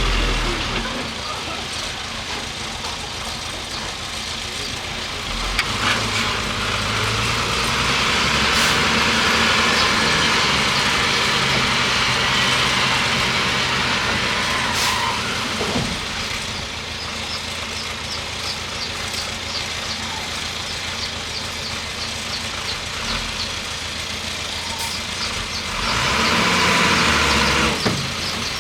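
Bulldozer's diesel engine running as it pushes earth, growing louder twice under load, for several seconds in the middle and again briefly near the end, with a faint rapid clatter through the second half.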